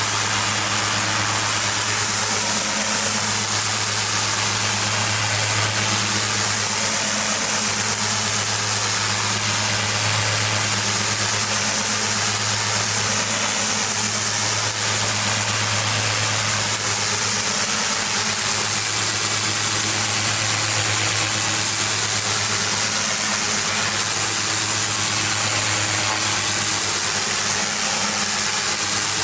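Pressure washer's engine running at a steady speed, with the even hiss of its high-pressure water spray.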